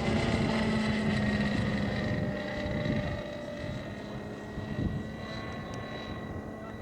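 Radio-controlled scale P-51D Mustang model in flight, its two-cylinder inline two-stroke engine driving a geared four-blade propeller with a steady drone that fades steadily as the plane flies away.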